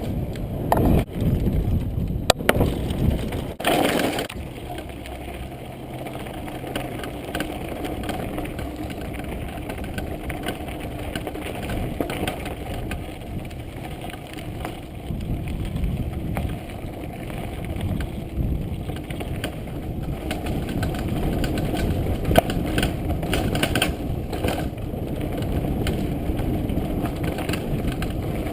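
Downhill mountain bike descending a rocky trail: tyres crunching and skidding over rock and dirt, with the bike rattling and knocking over bumps, loudest in a cluster of hard knocks in the first few seconds.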